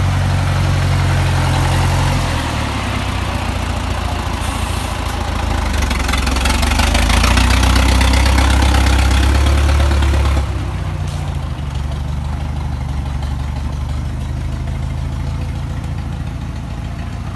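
Excavator diesel engine running steadily. It grows louder and rougher about six seconds in, then drops back abruptly to a lower, steadier run about ten seconds in.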